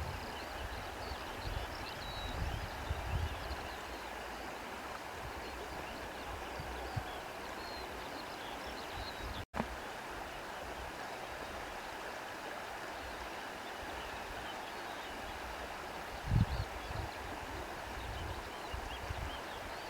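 Wind blowing steadily through trees, with faint bird chirps and a few low gusts buffeting the microphone, near the start and again late on.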